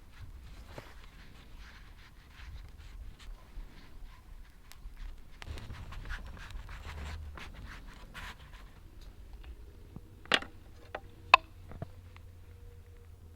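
Soft scraping and rubbing handling sounds, then a few sharp knocks, the loudest about ten and eleven seconds in.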